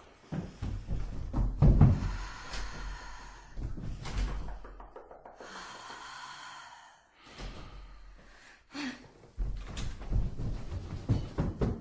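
A series of heavy thuds and knocks, like a door slamming and being banged on, with eerie music underneath.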